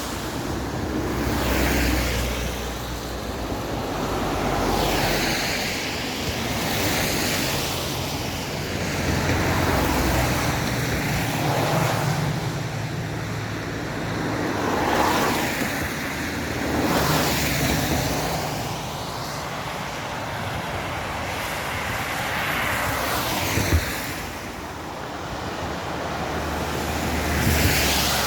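Traffic on a rain-wet road: vehicles passing one after another, each tyre hiss swelling and fading, over a low engine hum. There is a single sharp knock near the end.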